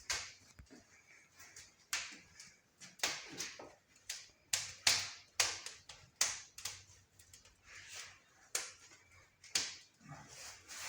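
A metal spatula scraping a hard surface: a dozen or so short, sharp scrapes at an uneven pace.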